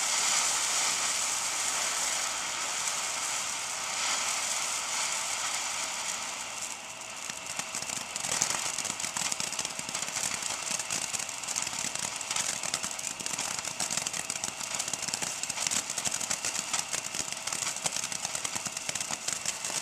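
Consumer ground fountain firework spraying sparks. It gives a steady high hiss for the first several seconds, then crackles densely for the rest.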